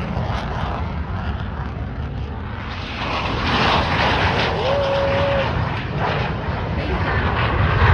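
Military fighter jet engines rumbling as the jets fly near the airfield; the noise swells about three seconds in and again near the end. A brief steady whistle-like tone sounds about halfway through.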